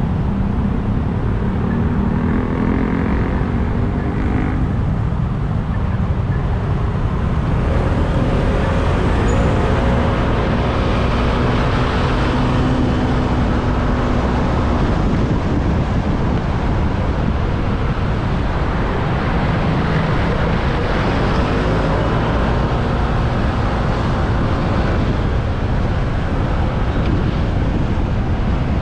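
Motorcycle riding through city traffic, heard from on board: a steady low rumble of wind and road noise, with engine pitch rising and falling as it speeds up and slows.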